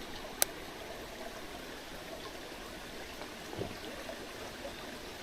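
Mountain stream running steadily, an even rushing of water, with a single sharp click about half a second in.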